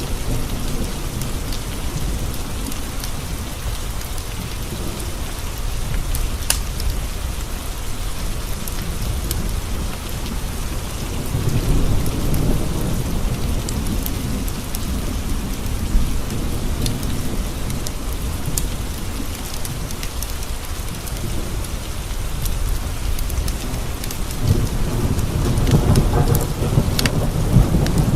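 Steady heavy rain with two long rolls of distant thunder, one starting about eleven seconds in and a louder one near the end. Occasional sharp pops or ticks are scattered through it.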